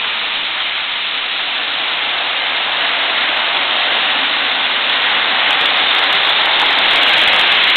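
Model trains running on the layout's track: a steady rushing rumble of wheels and motors that grows slowly louder.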